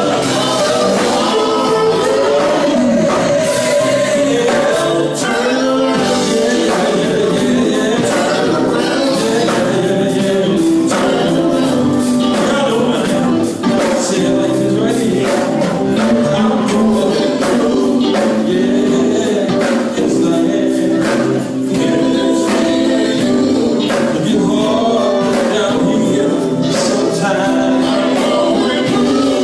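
Live gospel music: a vocal group singing together over a band, with a steady percussive beat.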